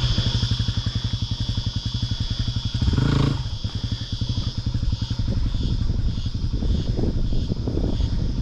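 Motorcycle engine running with a fast, even beat, briefly revved up about three seconds in and then settling back.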